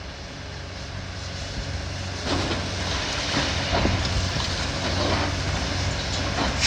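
Demolition excavator's diesel engine running steadily. From about two seconds in, rubble and scrap metal crunch and scrape as the machine works the debris, and the sound grows louder.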